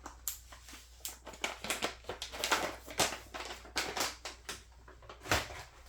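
Whole coffee beans rattling and clicking in quick, irregular ticks as a single dose is handled, with one louder knock about five seconds in.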